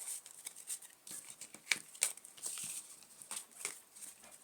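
Playing cards being handled and shuffled: an irregular run of short, papery clicks and snaps.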